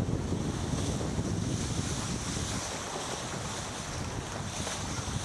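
Wind buffeting the microphone with a low, gusting rumble, over a steady hiss of water rushing past a racing sailboat's hull as it sails.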